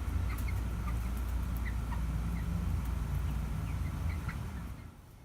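Backyard hens clucking softly, with a scattering of short, high calls over a low steady rumble that fades out near the end.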